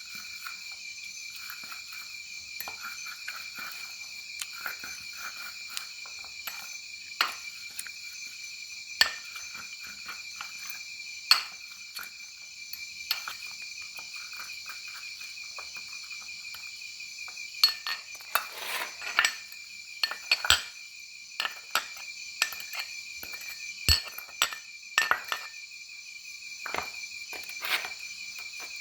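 A steady chorus of insects, with crickets trilling in a high band, and scattered sharp clinks and knocks that come more thickly in the second half.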